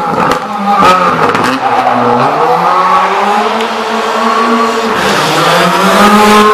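Skoda Fabia R5 rally car's turbocharged four-cylinder engine revving hard and dropping back repeatedly, its pitch falling sharply several times in the first two seconds, then climbing for over a second, dipping near the end and rising again as the car is driven through a slalom.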